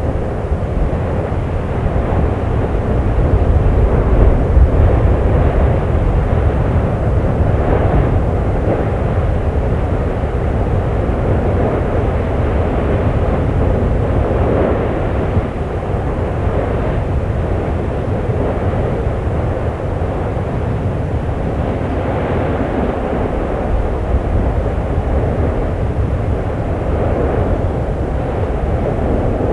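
Steady, deep noise of an erupting volcano at the Geldingadalir fissure, swelling slightly now and then.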